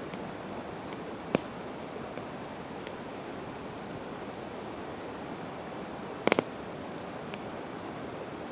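Campfire of split evergreen wood crackling, with sharp pops about a second in and a quick double pop about six seconds in, over a steady hiss. An insect chirps about twice a second through the first five seconds.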